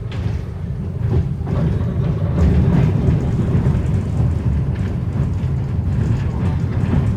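Passenger train running, a steady low rumble that grows a little louder about two seconds in.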